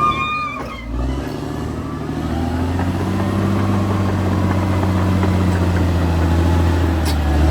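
Caterpillar D6R XL bulldozer's diesel engine running, its revs and loudness rising about two seconds in and then holding steady under load.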